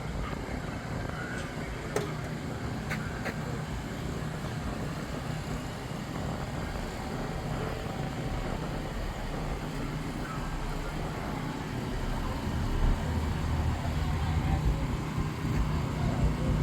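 Car engines running with a low rumble that grows louder over the last few seconds, with a few sharp clicks about two to three seconds in.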